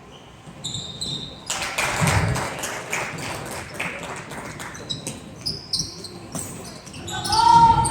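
Basketball game in a gym: a ball bouncing on the court with short high squeaks and voices around it, and a loud shout near the end.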